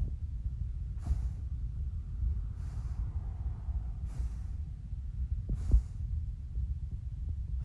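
A person breathing close to the microphone, one breath about every one and a half seconds, over a steady low rumble.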